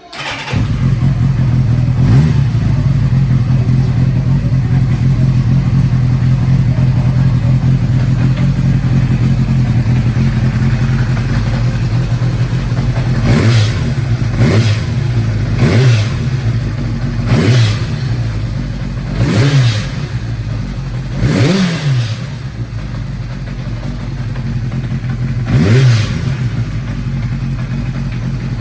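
Kawasaki Zephyr 750's air-cooled inline-four engine idling steadily, then blipped with about seven short throttle revs in the second half. The cam chain has been repaired so its rattle is gone, though a light tapping (kotokoto) still remains.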